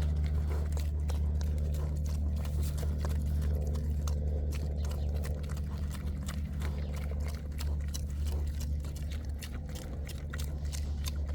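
Mini pigs eating and moving about: irregular clicks and crunches over a steady low hum.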